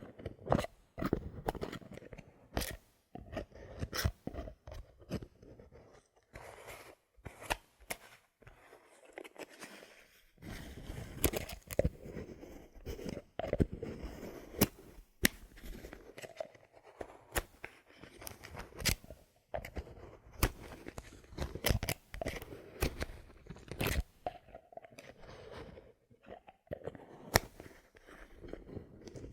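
Bottle caps handled close to the microphone: an irregular run of sharp clicks and taps mixed with crackly scratching.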